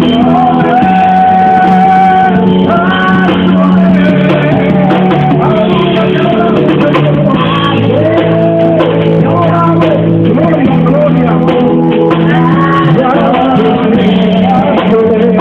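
Worship song: a voice sings a gliding, held melody over instrumental accompaniment with a steady bass.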